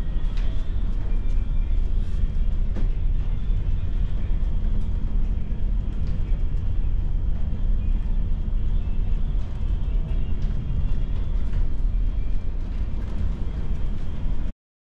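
Steady low rumble of a running engine, with scattered faint clicks, cutting off abruptly near the end.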